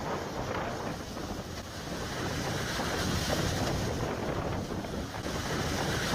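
Wind rushing and buffeting against the microphone, a steady rough noise.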